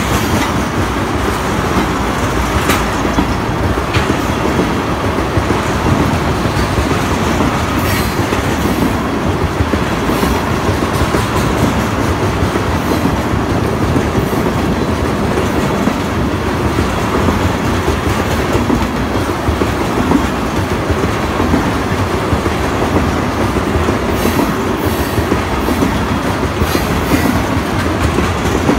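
Ethanol tank cars of a freight train rolling past through a road crossing. Steady, loud rumble and clatter of steel wheels on the rails, with occasional sharp clicks.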